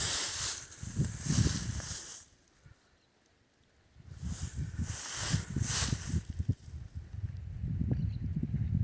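Wind blowing across the microphone: gusts of hiss over low buffeting rumble. The sound cuts out completely for about a second and a half a little over two seconds in, then the wind noise returns.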